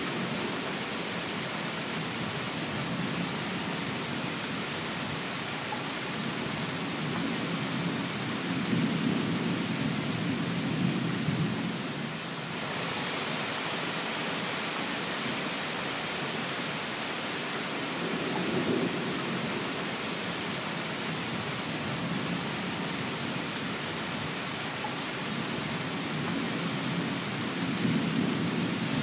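Steady rain hissing evenly, with low rumbles of distant thunder swelling three times: about a third of the way in, around the middle, and near the end.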